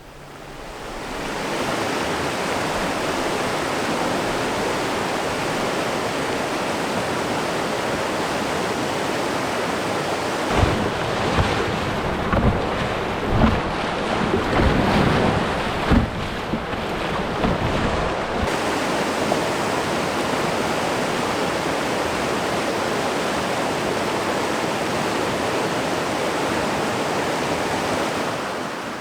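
Steady rush of river water running through rapids. A cluster of low thumps comes through in the middle, like wind buffeting the microphone.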